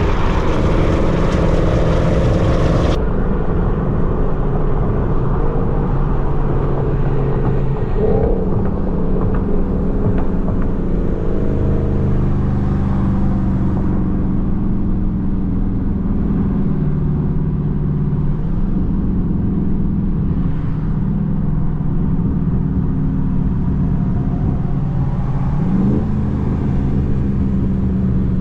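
Dodge Charger Scat Pack's 392 HEMI V8 running while cruising, its low engine note holding steady and shifting in pitch a few times with speed and gear changes. The sound changes abruptly about three seconds in.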